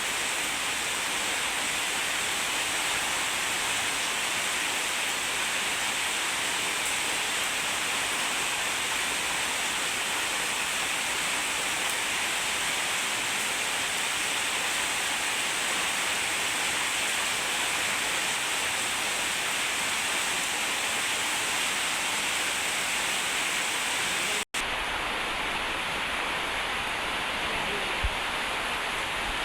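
Heavy rain pouring steadily. About 24 seconds in the sound drops out for an instant and comes back duller, and a single click follows near the end.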